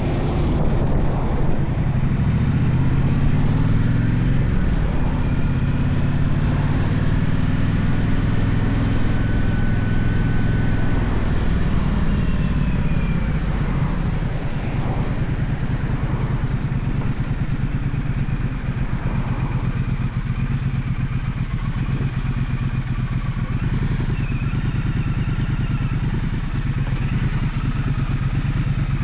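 Gaokin GK1200 motorcycle engine running under way, its pitch climbing and shifting in the first few seconds as it accelerates, then holding steadier.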